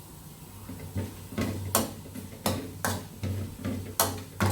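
A series of sharp, irregularly spaced knocks from kitchen work, starting about a second in, over a steady low hum.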